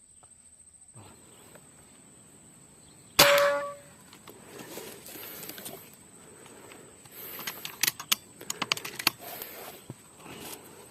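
A single sharp gunshot about three seconds in, with a brief ring after the crack. It is followed by scattered rustling and a run of quick taps and clatters.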